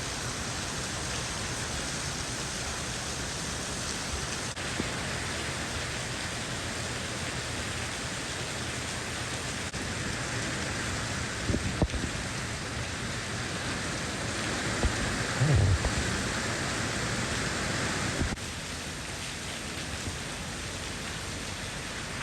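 Heavy rain falling steadily, a dense even hiss. A few short low thumps are heard a little past the middle, the loudest ones about two-thirds of the way through, and the rain drops slightly in level near the end.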